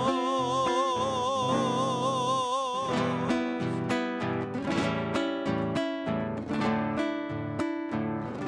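A sung note held with vibrato fades out about three seconds in, and acoustic guitar strumming carries an instrumental interlude of a folk song.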